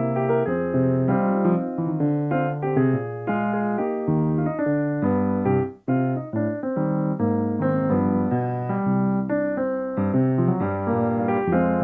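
Solo piano playing a flowing accompaniment of chords and melody, with a brief break about halfway through.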